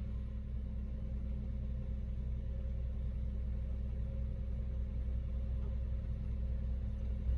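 Truck engine idling: a steady, unchanging low hum.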